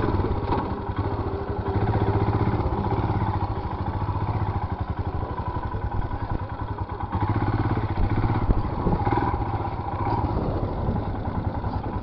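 Royal Enfield Himalayan's single-cylinder engine running as the motorcycle is ridden, the throttle opened up a little after a second in and again around seven seconds in.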